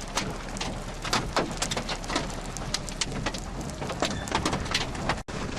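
Rain: irregular taps of raindrops striking close to the microphone over a steady hiss, with a brief dropout of all sound near the end.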